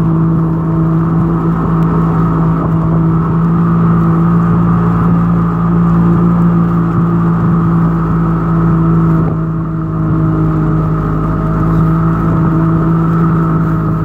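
Motor engine running steadily at an even speed, with a strong constant hum, easing off briefly for a moment about two-thirds of the way through.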